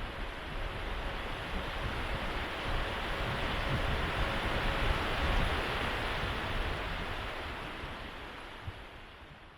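Ueda Electric Railway Bessho Line train rolling along the rails, a steady rushing rumble that swells about halfway through and then fades away.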